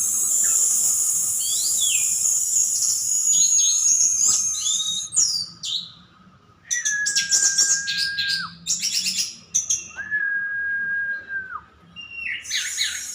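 Orange-headed thrush singing a rapid, varied, high-pitched warbling song. Two long, level whistles come in around the middle and again later, with bursts of quick notes before and after.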